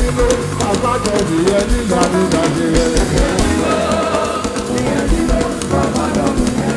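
Church band music with drum kit and guitar, a steady bass-drum beat.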